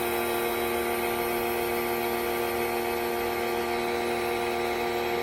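Sun Joe electric pressure washer running steadily, its motor and pump giving a constant whine.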